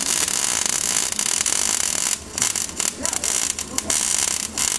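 Electric arc welder crackling and sizzling steadily as a weld is laid, with the arc broken off briefly about two seconds in and in a few short gaps.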